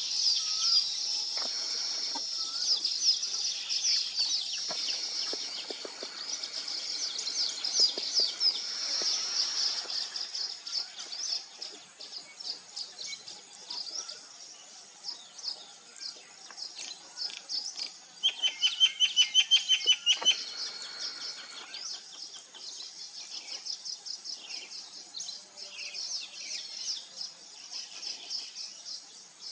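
A colony of weaver birds chattering and chirping in a dense, overlapping chorus. About 18 seconds in, one bird gives a loud, rapid run of repeated notes lasting about two seconds.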